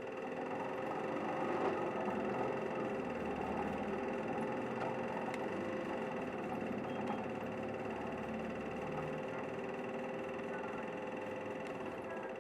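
Kanto Bus 1900-series city bus heard from inside, its diesel engine running as the bus moves. The sound swells over the first couple of seconds, then holds steady with a constant whine.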